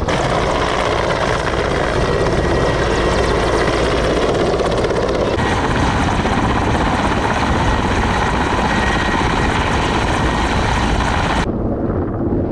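Helicopter engine and rotor running, a loud, steady drone with no let-up. Near the end the sound turns duller as the high end falls away.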